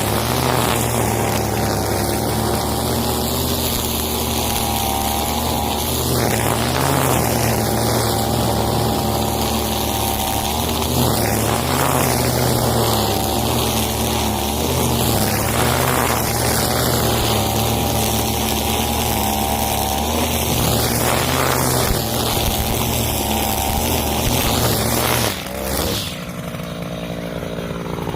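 Husqvarna 541 brush cutter's two-stroke engine running at high revs while cutting vegetation, its whine sweeping up and down about every five seconds as the head is swung. Near the end it drops back to a lower, quieter idle.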